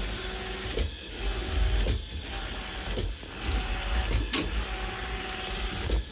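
Robot vacuum cleaner running: a steady motor hum with a light knock about once a second.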